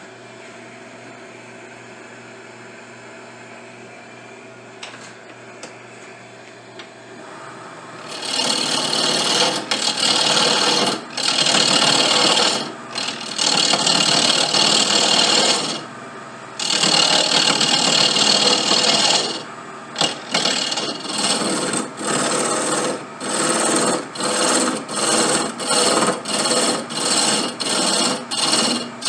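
Briar wood being cut or abraded: after a steady faint hum, loud scraping passes begin about eight seconds in, long at first, then turning into short, regular strokes a little over one a second.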